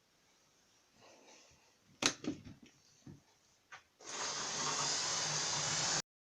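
Light clicks and knocks of OO gauge model railway rolling stock being handled on the track, the sharpest about two seconds in. About four seconds in a steady whirring noise with a low hum starts, then cuts off abruptly two seconds later.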